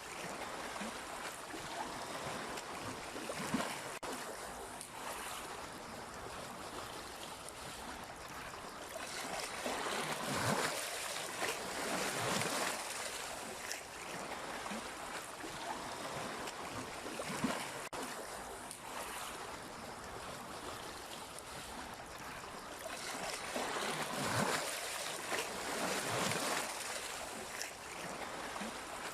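Sea waves washing in and out in a slow, uneven rhythm, with louder surges about ten seconds in and again about twenty-five seconds in, and a few brief sharp splashes.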